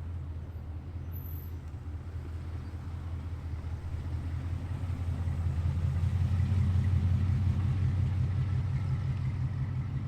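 Muscle car exhaust rumbling at low revs as the car rolls out, a deep pulsing burble that grows louder through the middle as it draws closer.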